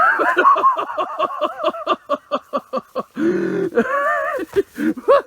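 Kookaburra laughing: a fast run of short, high, repeated hoots for about three seconds, then a drawn-out wavering call and a long falling call near the end.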